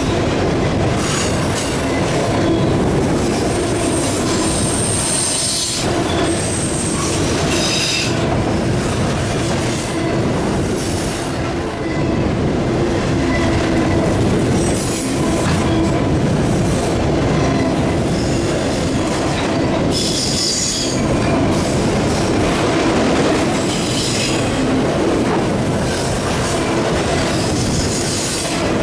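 Autorack freight cars rolling past close by: a steady rumble of steel wheels on rail, with high-pitched wheel squeals that come and go every few seconds.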